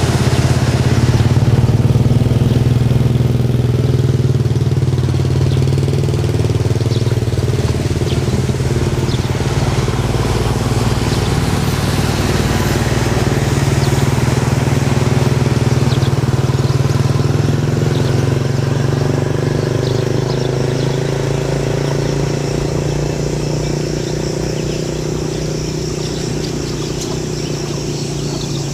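An engine running steadily at a fairly constant speed, a low drone that cuts in at the start and stops suddenly at the end.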